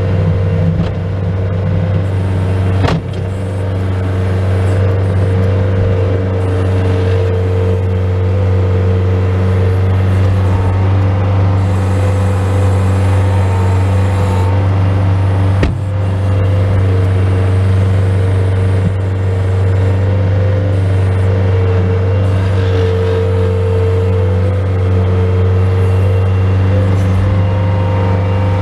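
Bobcat S185 skid steer loader's four-cylinder diesel engine running steadily under load while plowing snow. Two sharp knocks, about three seconds in and again past the halfway point.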